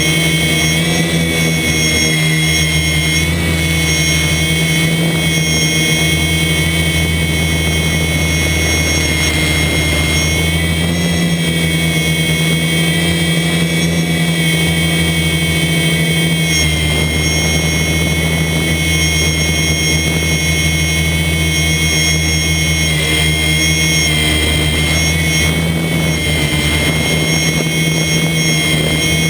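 DJI F450 quadcopter's four brushless motors and propellers whining steadily in flight, the high-pitched tones wavering slightly up and down with the throttle.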